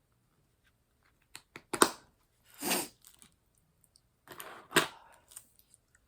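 A few sharp small clicks and taps about a second and a half in and again near the end, from diamond-painting tools and drills being handled, with breathy exhales in between.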